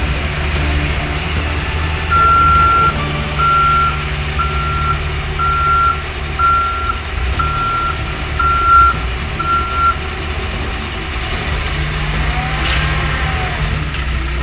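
Dump truck's engine running steadily while its reversing alarm beeps eight times, about one beep a second, as the truck backs up.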